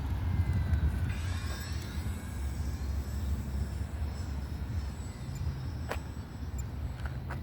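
Low wind rumble on the microphone. Over it, the faint whine of a small electric RC plane's brushless motor and propeller passes by, its pitch bending about a second in, with a couple of faint clicks near the end.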